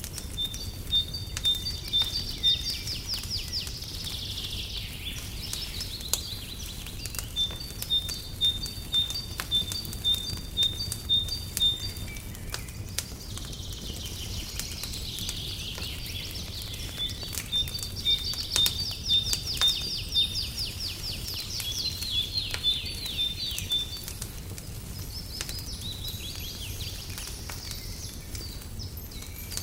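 Songbirds singing in phrases of quick, high repeated chirps and trills, over the crackle of a wood fire with scattered sharp pops and a steady low rumble.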